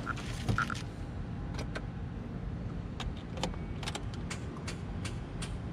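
Car keys jangling and scattered clicks as the ignition is tried on a car with a weak battery; the engine does not start.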